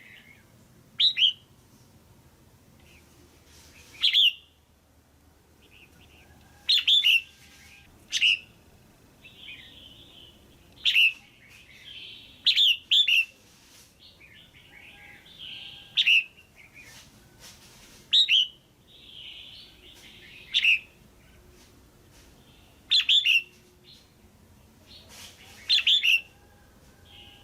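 Female red-whiskered bulbul giving short, sharp calls every two to three seconds, some in quick pairs, with softer chatter between them. This is the kind of call played to stir up male bulbuls or to pair birds.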